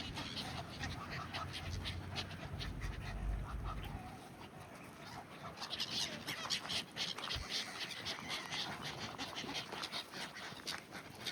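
A flock of waterfowl, including Egyptian geese, calling over and over in short, harsh, overlapping calls that come thickest about halfway through. A low rumble runs under the first four seconds.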